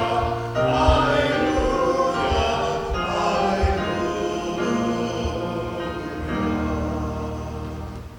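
Church worship music: voices singing a slow song with instrumental accompaniment, the last notes fading away near the end.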